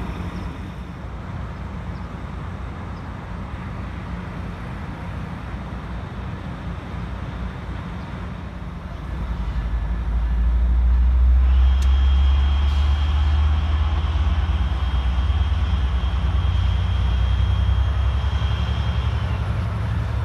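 Amtrak Pacific Surfliner train's diesel locomotive rumbling low, then growing much louder about nine seconds in as the engine throttles up and the train pulls away. A steady high whine joins it for most of the second half.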